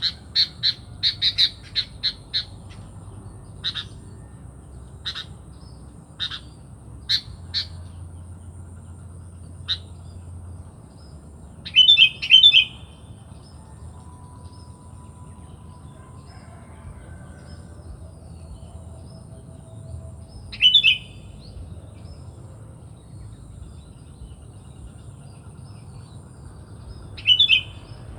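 Sooty-headed bulbul (kutilang) calling: a quick run of short chirps at the start, then scattered single chirps, and three louder bubbly phrases, the loudest about twelve seconds in and the others near the end.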